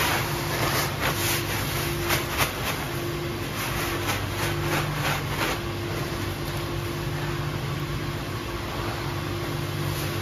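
Coarse salt being poured and scooped into a water softener's brine tank, a run of gritty rustles and crunches in the first half that then stops, over a steady low hum of boiler-room machinery.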